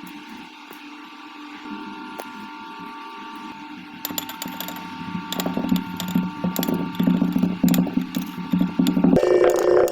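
Kinetic sand being squished and crumbled: crackling clicks start about four seconds in and grow denser and louder, over a steady low hum.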